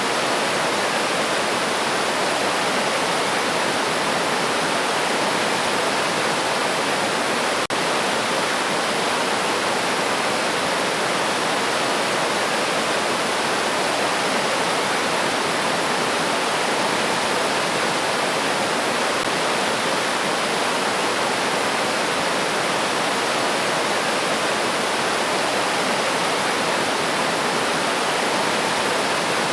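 River water rushing and splashing over rocks in a steady, even flow, with one brief dropout about eight seconds in.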